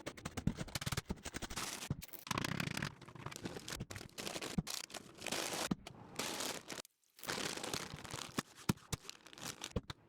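Plastic food packaging crinkling and rustling in the hands, with small irregular clicks and scrapes, as a bagged salad blend is handled.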